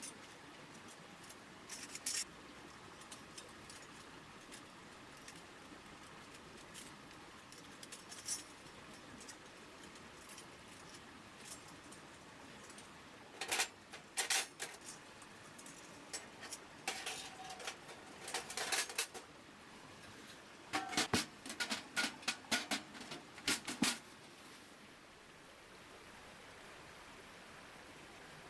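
Scattered metallic clinks and rattles from camp gear being handled, in several short flurries, over a steady low hiss.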